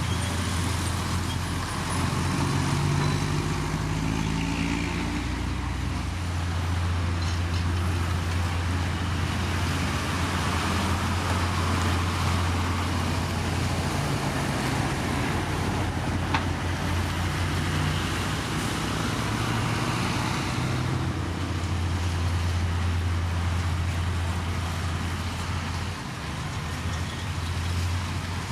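Heavy diesel engine of earthmoving machinery running under load, its pitch rising and falling as the revs change, with one sharp click a little past the middle.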